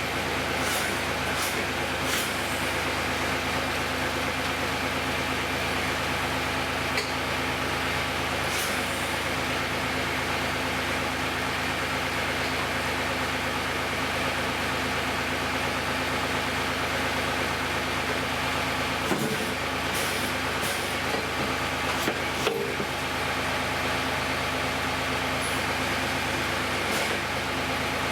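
Heavy equipment engine running steadily, with a few sharp metallic clanks near the start and again about two-thirds of the way in.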